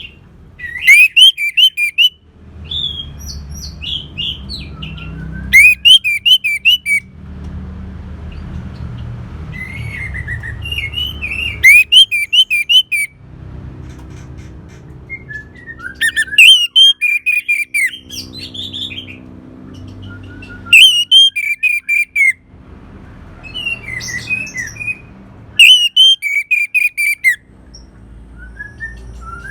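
Orange-headed thrush singing: loud, rapid, high-pitched warbled phrases about every four to five seconds, with softer phrases between them, over a low background rumble.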